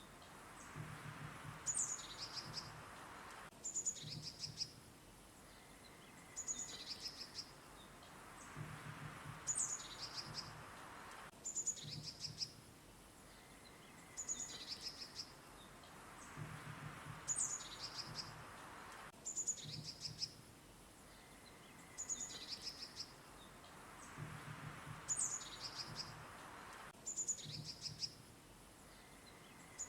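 Several songbirds chirping with quick, high, falling notes over a soft background hiss, with low pulsing calls underneath. The same pattern of calls comes back about every eight seconds, as in a looped recording.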